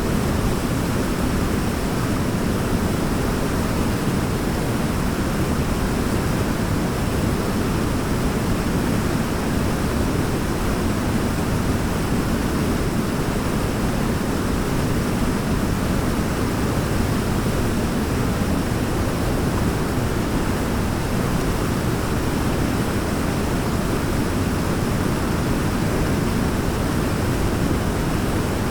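Waterfall: a steady, unbroken rush of falling water, heaviest in the low end, with no change in level.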